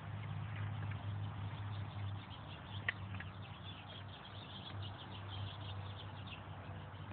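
Small birds chirping in quick short calls, thickest from about four to six and a half seconds in, over a steady low hum, with one sharp click about three seconds in.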